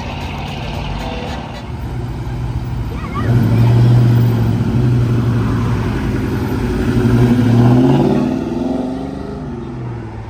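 Car engine pulling away and accelerating: a low exhaust note comes in loud about three seconds in, climbs in pitch near the eighth second as it revs up, then fades as the car moves off. Another engine runs at a steady idle underneath.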